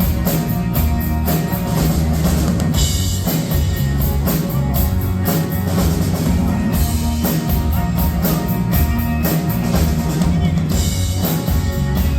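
Live rock band playing an instrumental passage: a drum kit keeps a steady beat with regular cymbal and snare hits over a bass line and guitar.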